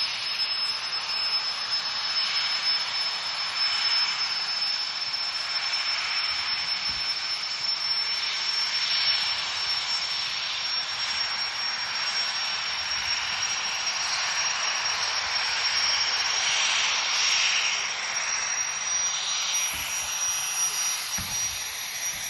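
A steady, loud rushing hiss with a thin, high whistling tone running through it that rises slightly in pitch.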